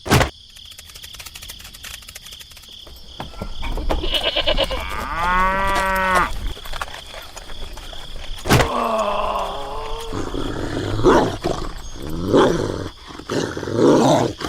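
Several drawn-out pitched animal calls, the clearest lasting about a second near the middle, over a steady high-pitched whine.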